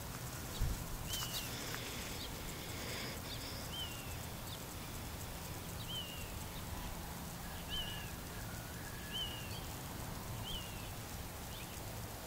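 A bird giving a short, high call note again and again, about every second and a half, over a steady low rumble.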